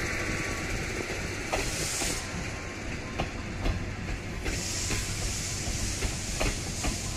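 12-series passenger coaches rolling slowly past on a steam-hauled train, a steady rumble with scattered clicks from the wheels on the rails. A burst of high hiss comes about a second and a half in and lasts under a second, and a longer one starts about four and a half seconds in.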